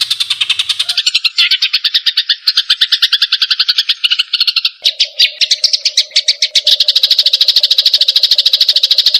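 White-rumped shama (murai batu) singing in the fast trotol style: a long, very rapid rattling trill of repeated notes that shifts in pitch without a pause. A steady low tone joins about halfway through.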